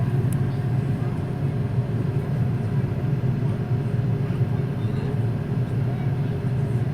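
Airbus A330-300 jet engines at takeoff thrust heard inside the passenger cabin: a steady, deep rumble with airflow noise.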